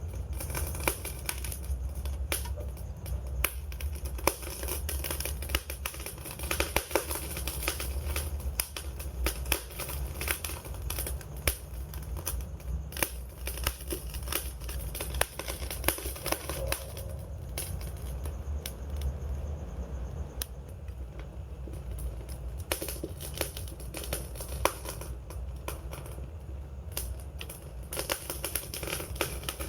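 Wood fire crackling, with quick, irregular pops and snaps over a steady low rumble.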